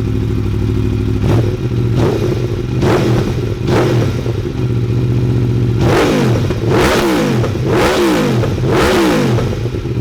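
Aprilia Tuono V4 1100 Factory's V4 engine idling through an Akrapovic exhaust with its baffle (dB killer) removed, blipped by hand while standing. There are three short throttle blips in the first few seconds, then four bigger revs near the end, each rising in pitch and falling back to idle.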